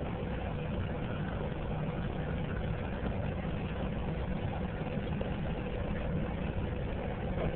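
Steady low engine rumble of a running vehicle, with a faint steady hum over it.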